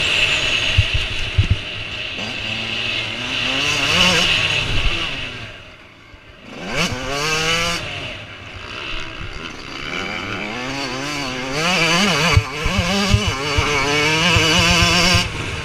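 Motocross bike engines revving up and down as riders race by, the pitch climbing and dropping with throttle and gear changes. The sound dips about six seconds in, then a bike accelerates hard, its pitch rising steeply.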